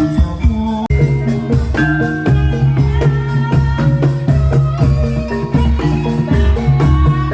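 Live Javanese gamelan-style music: quick runs of struck metallophone notes over regular low drum beats and sustained low tones.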